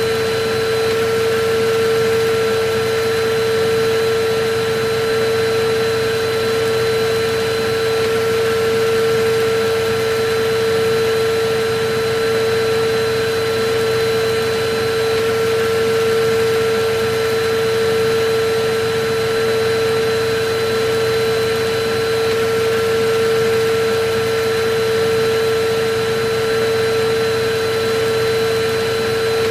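Electric vacuum cleaner running steadily: a constant motor whine over an even rush of air, swelling slightly in loudness every couple of seconds.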